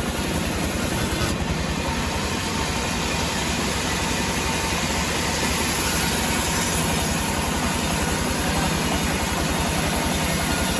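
Engine idling steadily with an even low pulse.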